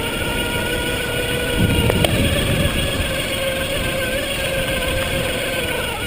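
Electric bike motor whining steadily under power, over wind and tyre noise on the trail. About two seconds in comes a louder rumble with a sharp click.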